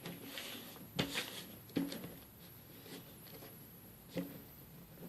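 A sheet of paper being folded and creased by hand into a paper airplane: faint rustling with a few light taps and crinkles, the sharpest about a second in.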